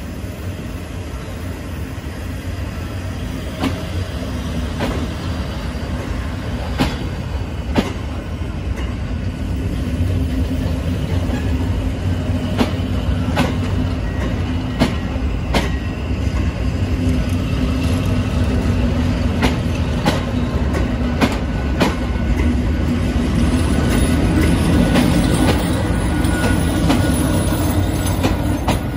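A departing passenger train of MÁV 'Fecske' coaches rolls slowly past, with a steady low rumble and irregular sharp clicks as the wheels cross rail joints. The running noise grows louder near the end as the V43 'Papagáj' electric locomotive at the rear goes by.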